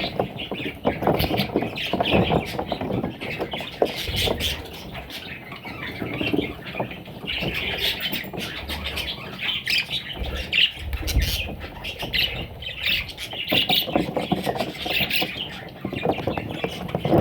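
Budgerigar chicks squawking again and again, mixed with many small clicks and scratches.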